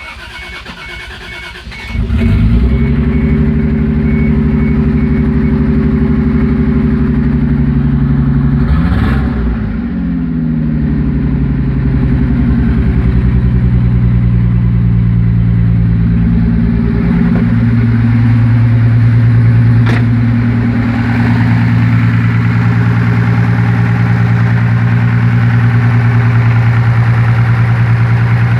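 Toyota Supra MK3's 7M-GE 3.0 L inline-six cranking briefly, catching about two seconds in, then idling, settling to a lower idle after about ten seconds, over a warning chime beeping at the start. The idle carries a knock that the owner questions as rod knock but thinks comes from under the valve cover, in the valvetrain.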